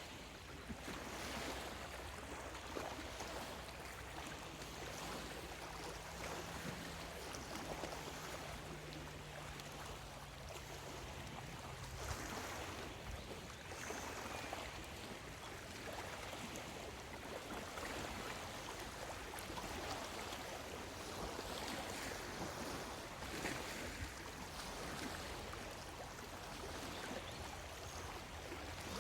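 Small lake waves lapping on the shore, a steady wash that swells every couple of seconds.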